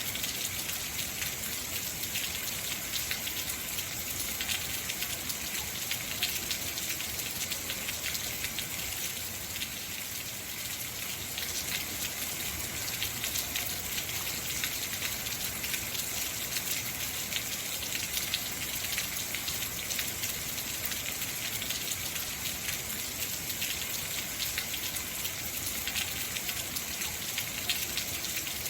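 Heavy rain falling steadily, a dense hiss of many drops striking surfaces.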